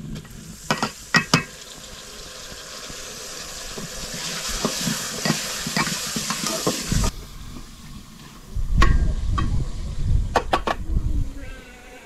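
Okra frying in a metal pot on a wood-fired mud stove, stirred with a metal ladle. The ladle clinks against the pot a few times, then a sizzle grows louder and cuts off suddenly about seven seconds in. A low rumble and a few more clinks follow near the end.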